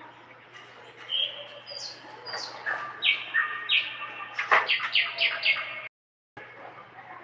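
Common bulbul singing: a few clear whistled notes, then a quick, loud run of chirping phrases. The sound cuts out completely for about half a second near the end.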